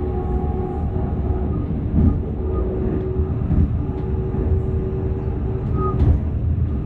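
Train running at speed, heard from inside the carriage: a steady low rumble with a faint held whine, and a couple of short thumps from the wheels on the track.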